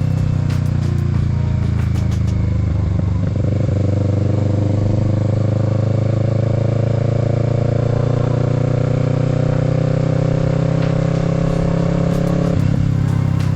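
Kawasaki Z650 parallel-twin engine running under way. About three seconds in there is a break in the engine note, after which its pitch climbs slowly through one gear, then drops again near the end as it shifts.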